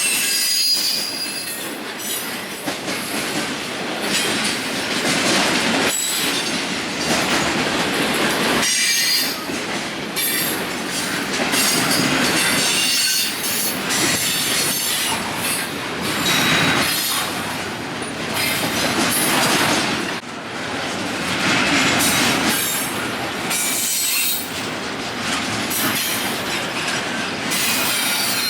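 Union Pacific freight train cars rolling past, wheels squealing and clattering over the rails.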